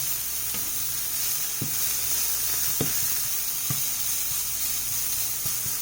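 Shrimp in blackened seasoning sizzling steadily in a hot frying pan, with a few sharp pops from the spitting fat.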